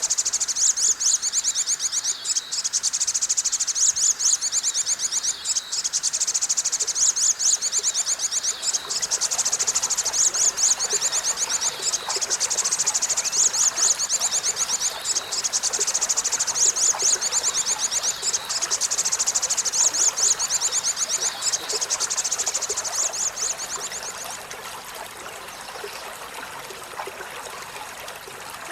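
Rapid, high-pitched insect trill, an even fast pulsing with short breaks, over running water; the trill fades out about 24 seconds in, leaving only the water.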